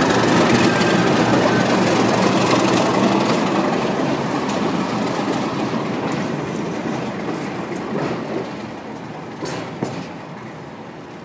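Diesel-hauled Direct Rail Services freight train passing close and moving away: locomotive engine and wagons, the noise fading steadily. A couple of sharp knocks near the end.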